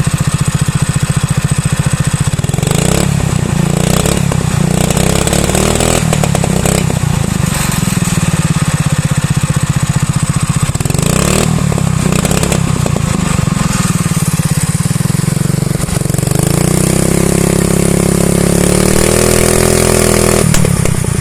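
Drift trike's small engine running through its exhaust with a loud, pulsing idle, blipped up in short revs a few times, then held at a higher rev for about four seconds near the end before dropping back.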